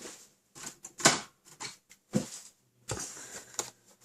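Paper crafting desk handling noise: cardstock rustling with several sharp clicks and knocks, the loudest about a second in, as a 1-inch circle craft punch is picked up and handled.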